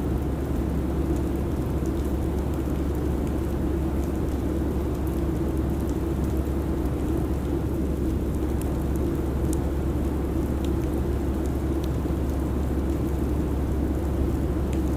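Steady airliner cabin noise in flight: an even low drone from the engines and airflow, with a few faint ticks above it.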